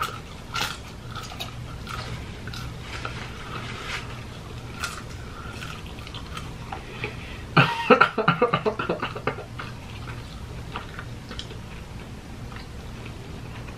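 Chewing and crunching of fried food, with scattered crisp bites. About eight seconds in comes a short burst of laughter, the loudest sound, breaking into quick pulses that fade away. A low steady hum sits underneath.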